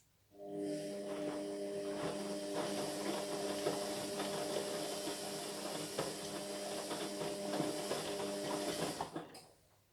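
Washing machine running steadily with a motor hum of several fixed tones, a hiss and scattered clicks; it starts abruptly about half a second in and cuts off about nine seconds in.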